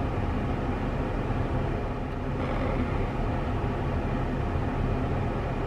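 Car air conditioning blowing steadily inside the cabin, an even rushing noise over a low rumble. It is a little loud.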